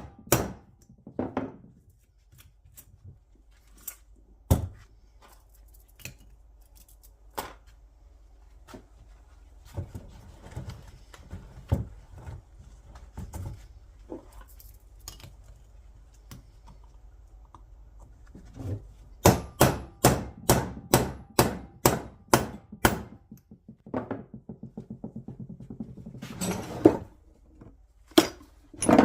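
Hammer blows on differential parts during a rebuild: scattered single strikes at first, then a run of about a dozen evenly spaced blows at roughly three a second past the middle, followed by a quick patter of lighter taps and a few more strikes near the end.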